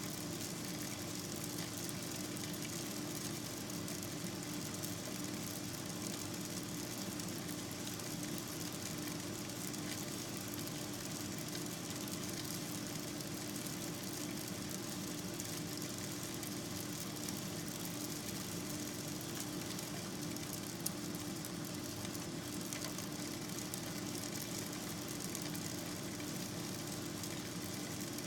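Steady hum and hiss with no change, and one brief click about 21 seconds in.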